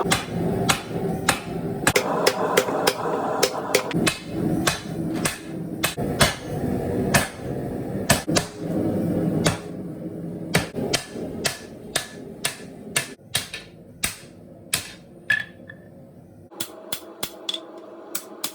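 Hammer blows on hot leaf-spring steel over an anvil: sharp ringing strikes, irregular at about one to two a second, with a quicker flurry near the end. Under them runs a steady rushing noise that fades about halfway through.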